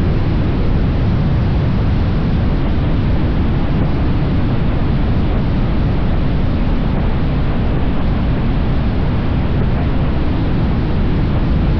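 Steady rush of wind on the microphone and road noise from a motorcycle underway at speed, loud and unchanging, heaviest in the low end.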